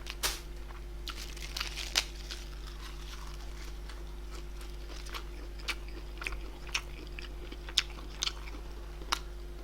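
A person chewing and biting food close to the microphone, with scattered irregular crunches and mouth clicks.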